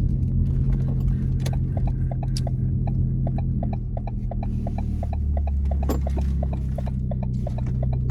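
Straight-piped 2016 Ford Focus exhaust, with muffler and resonator deleted, droning steadily with light ticking over it. The drone grows deeper and stronger about five seconds in.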